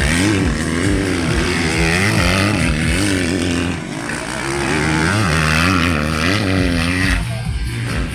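Motocross bike engines revving hard as the bikes race by, their pitch rising and falling over and over with the throttle and gear changes. The sound dips about four seconds in, builds again, and drops away just after seven seconds.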